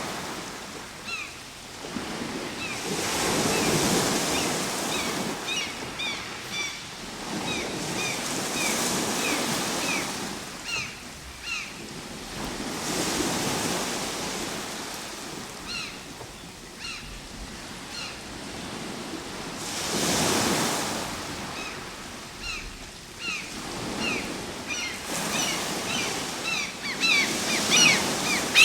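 Ocean waves breaking and washing up the shore, swelling and ebbing every few seconds. Many short bird calls sound over the surf, coming thicker near the end.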